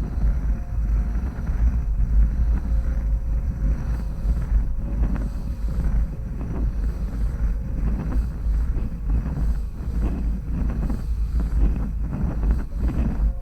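Close-miked ASMR trigger sounds: continuous, irregular scratching and rubbing right at the microphone, with a heavy low rumble.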